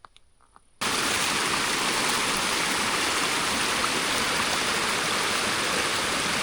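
Fast-flowing stream rushing steadily. It cuts in abruptly under a second in, after near quiet.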